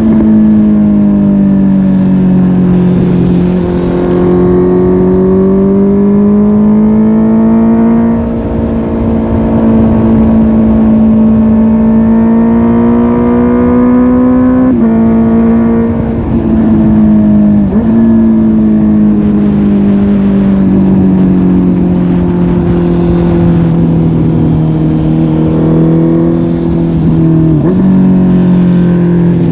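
Honda CB650R inline-four engine running through a MIVV GP PRO Carbon aftermarket exhaust while riding. The engine note rises and falls with the throttle. Its pitch jumps sharply a few times at gear changes, over steady road and wind noise.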